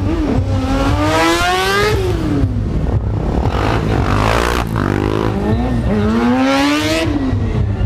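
Stunt motorcycle's engine revving hard three times: the pitch climbs steeply and drops back about a second in, again in the middle, and once more near the end.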